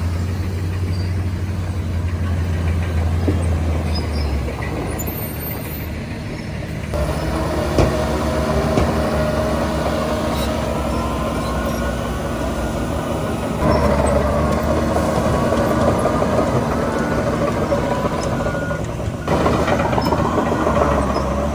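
Heavy diesel earthmoving machinery running steadily, its pitch shifting up and down at times, with a few abrupt changes in the sound.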